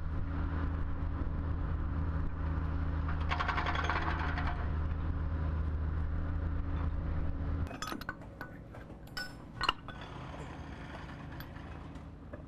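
A machine engine runs with a steady hum, with a brief rattle about three seconds in. The engine sound stops abruptly about two thirds of the way through, and scattered metal clinks and knocks follow.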